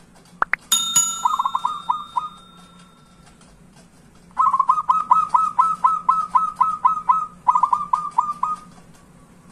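Zebra dove (perkutut) calling in quick runs of short repeated cooing notes, about ten a second, in three bursts, the longest lasting about three seconds. Just under a second in, a single metallic ding rings out and fades over about two and a half seconds, after two brief rising whistles.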